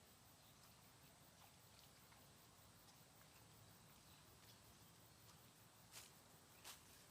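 Near silence, with faint scattered ticks and two sharper clicks about six seconds in.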